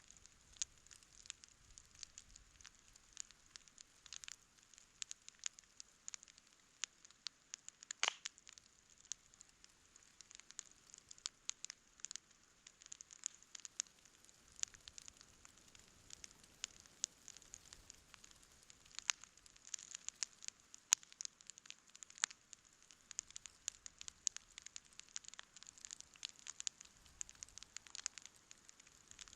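Wood campfire crackling, with frequent irregular snaps and pops over a faint hiss; one louder pop about eight seconds in.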